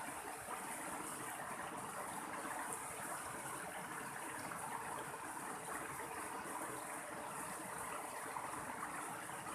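Mountain stream of running water flowing steadily, an unbroken rushing and babbling.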